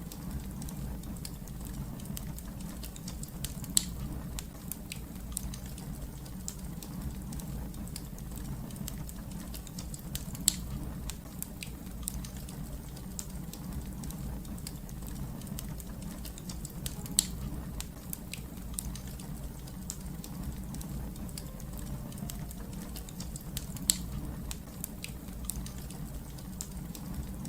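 Wood fire crackling: a steady low rumble of flames under many small snaps, with four sharper pops spaced evenly, about seven seconds apart.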